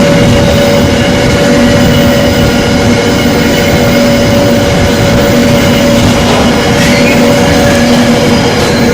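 Long intermodal container freight train hauled by a Class 66 diesel rolling steadily past, the wagon wheels running on the rails with a steady tone and a brief faint squeal about seven seconds in.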